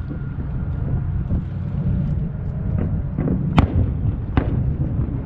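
Fireworks going off across the water: a string of sharp bangs, the loudest about three and a half seconds in and another just after, over a steady low rumble.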